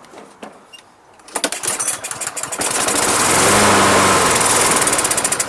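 A Toro Super Recycler walk-behind mower's Kohler engine is pull-started with no gas in the tank. After a quick rattle of cranking a little over a second in, it catches and runs loudly and steadily for a few seconds.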